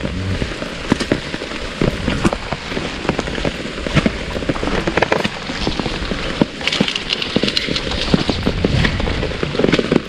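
Steady rain falling, with many sharp, irregular raindrop hits close to the microphone.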